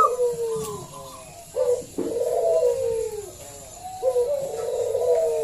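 Zebra dove (perkutut) cooing loudly in repeated rolling phrases that fall in pitch, two full phrases about a second and a half apart, with a sharp click about two seconds in.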